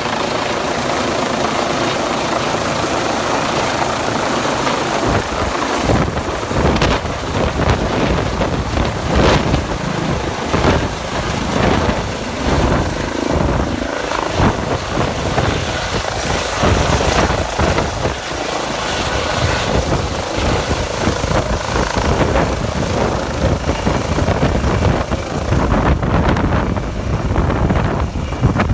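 Eurocopter EC135 medevac helicopter landing: steady rotor and turbine noise at first, turning gusty and uneven from about five seconds in, with a heavy low rumble.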